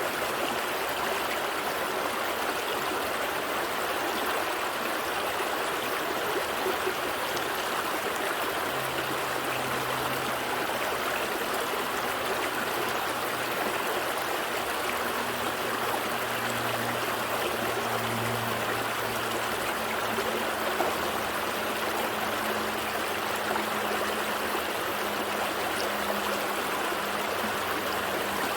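A gentle stream flowing steadily over rocks, a continuous even rush of water with light trickling.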